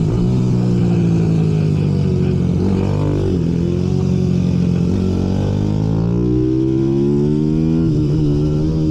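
Small minibike racing engines running at high revs, the pitch dipping sharply about three seconds in, then climbing steadily as the engines accelerate, and dropping again near the end.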